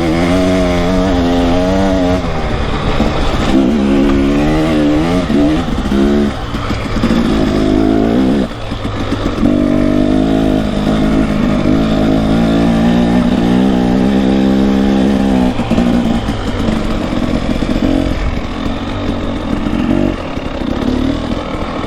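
Off-road motorcycle engine pulling hard under throttle up a trail, its pitch climbing and dropping in repeated runs as the throttle is rolled on and off and the gears change. Heard through a helmet-mounted mic, with a steady low rumble of wind underneath.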